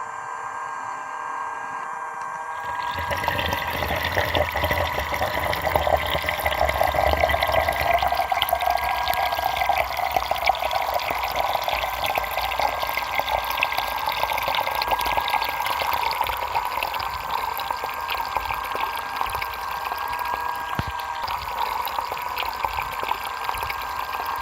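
Small homemade electric water pump running with a steady high tone. About three seconds in, water starts gushing and splashing out of it, and the flow keeps on steadily.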